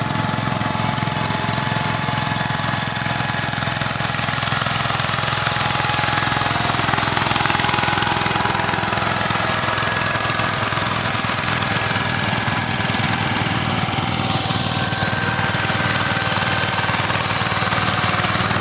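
Tractor diesel engine running steadily, with a fast, even firing beat.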